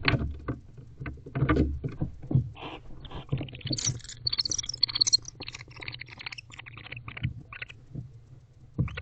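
Barn owls moving about inside a wooden nest box: talons scratching and shuffling on the wood and feathers rustling, in short irregular scrapes and clicks, with a flurry of higher, sharper clicks around the middle. A low steady hum runs underneath.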